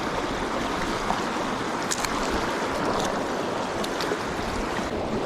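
Flowing river water rushing steadily around the wading angler, with a few faint clicks.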